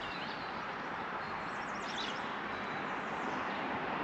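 Steady rushing of flowing creek water, with a few faint bird chirps about halfway through.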